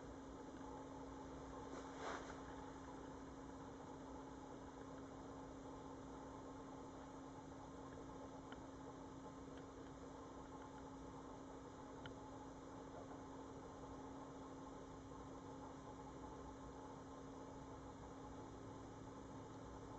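Faint steady hum, like mains or appliance hum, with a brief soft rustle about two seconds in and a few faint ticks.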